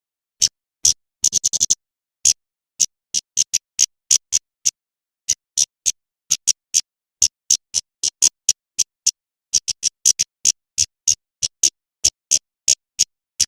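Female kemade bird calling: a run of short, sharp, high chips at about two to three a second, with a quick rattling burst of several chips about a second in.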